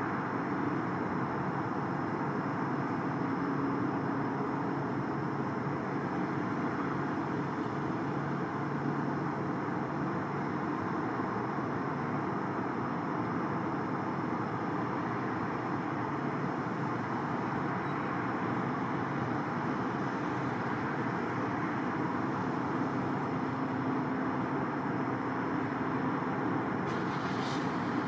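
Mini backhoe's engine running steadily amid road traffic noise, with a faint hum that rises and fades in places. A short hiss sounds about a second before the end.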